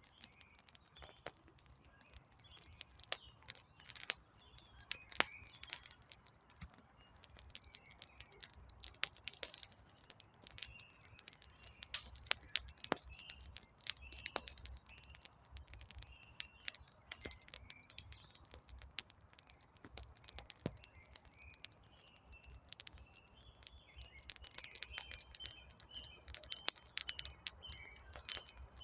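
Wood campfire crackling with many sharp, irregular snaps, while small birds chirp in short repeated notes throughout.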